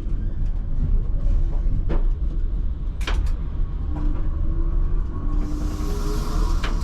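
ČKD Tatra T3R tram running along the track, with a steady low rumble and a few sharp clicks from the running gear. A faint whine rises in pitch in the second half, and a hiss comes in about five seconds in.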